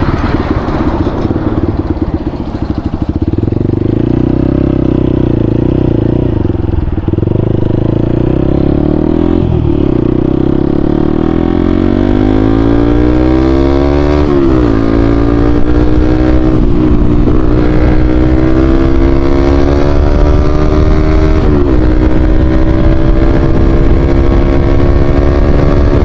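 Motorcycle with an aftermarket SC Project exhaust being ridden: the engine note climbs steadily as it accelerates, falls sharply at a gear change about 14 seconds in, then climbs again with a few more brief drops.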